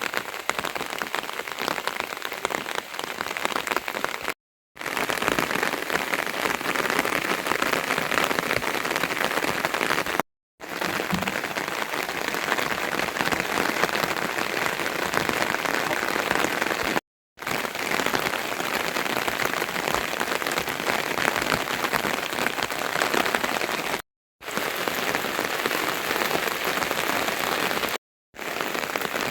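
Steady heavy rain falling and pattering on surfaces, a dense hiss of drops, broken by several brief dead-silent gaps.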